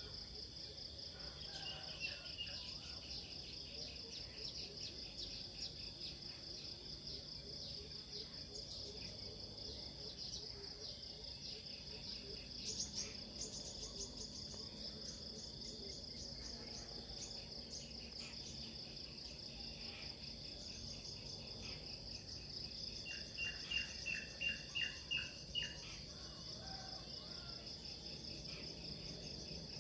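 A steady high-pitched chorus of crickets and other insects, with birds chirping over it: short runs of chirps about 2 and 13 seconds in, and a louder run of about six quick notes a little before the end.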